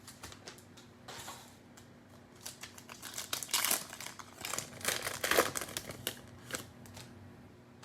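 Cellophane wrapper of a trading-card pack crinkling and tearing as it is opened, in irregular bursts that are strongest in the middle of the stretch.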